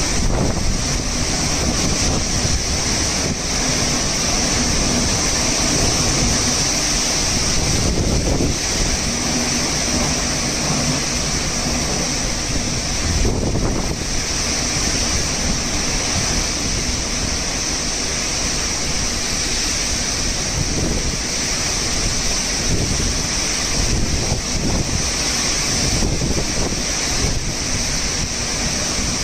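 Cyclone wind and heavy rain, a steady dense roar with irregular gusts buffeting the microphone.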